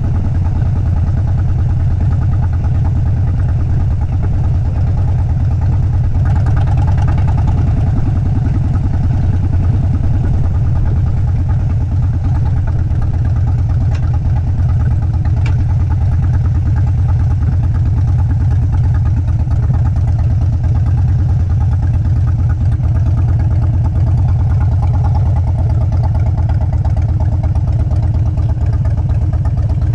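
Harley-Davidson V-twin motorcycle engine running steadily with a low, even exhaust beat that holds the same pace and level throughout.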